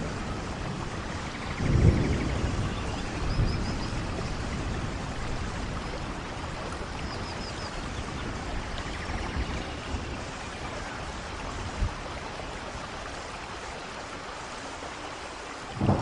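Steady rainforest rain with low thunder rumbles: a loud one about two seconds in and a smaller one a second and a half later.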